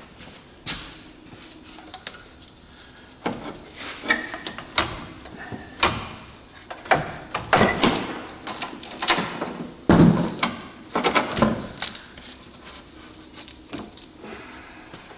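Irregular clanks, clicks and rattles of hand tools and metal parts being handled while working on a car's cooling system, busiest in the middle and tapering off near the end.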